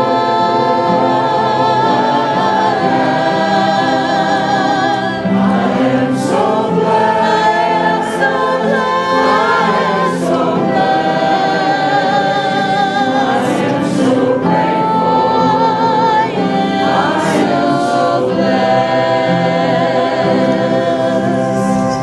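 A congregation singing a hymn together in held, chord-like notes with vibrato.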